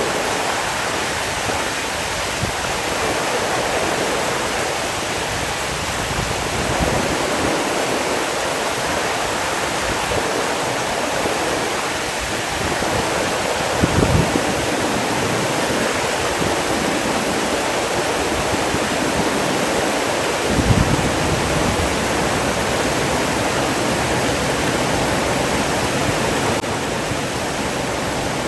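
Steady rush of running water, with two brief low thumps, one about halfway through and another about seven seconds later.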